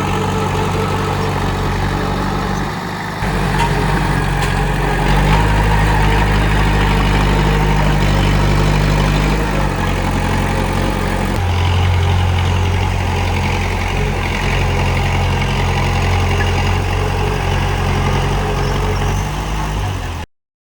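Diesel engine of a Komatsu D31P crawler bulldozer running, its low note shifting in pitch and level several times. The sound cuts off abruptly near the end.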